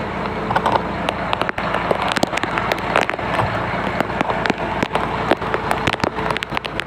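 Raindrops tapping irregularly and sharply, over a steady low hum.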